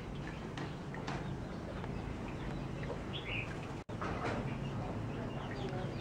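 Birds chirping briefly now and then in a yard, short high calls over a steady low hum, with a momentary break in the sound about four seconds in.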